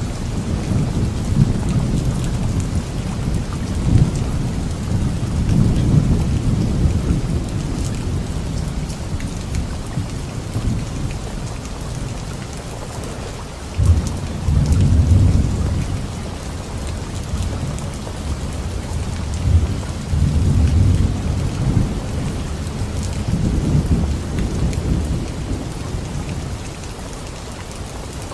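Steady rain falling, with thunder rumbling low in repeated swells that build and fade. The sharpest crack of thunder comes about 14 seconds in.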